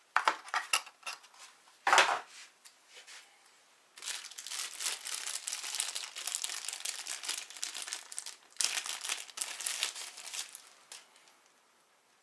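Plastic packaging being handled and crinkled: a few sharp crackles, one loud about two seconds in, then a long run of continuous crinkling that dies away near the end.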